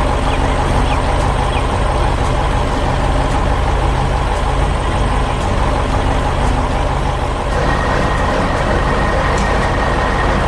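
Heavy diesel truck and construction-machine engines running steadily with a deep rumble. A thin, steady high whine joins in about three quarters of the way through.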